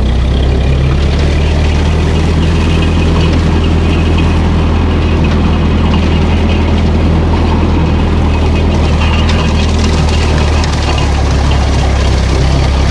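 Old Ferguson tractor's engine running loud and steady at an even speed, with the tractor stuck.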